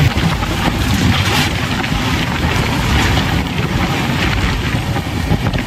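Passenger train running, a steady loud rumble and rush with wind buffeting the microphone.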